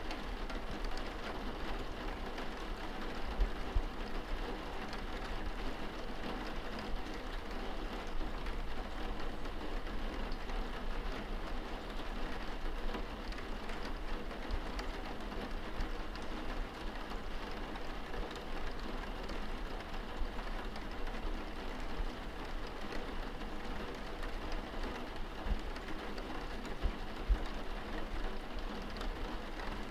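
Steady rain pattering on window glass, heard from inside the room, with a low rumble beneath and a couple of louder taps, one about three seconds in and one near the end.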